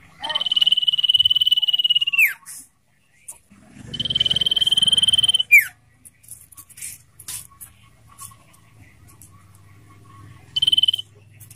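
Common iora singing its long trill: two long, high, steady notes, each ending in a quick downward slur, then a short third note near the end, with scattered short chirps between.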